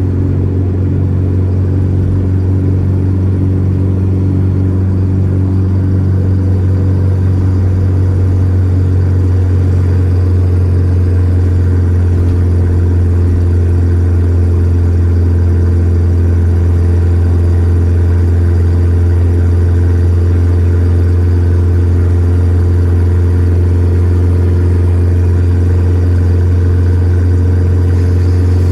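Volkswagen Gol G4 Rallye's four-cylinder engine running at a steady speed under way, a constant deep drone that holds nearly the same pitch throughout.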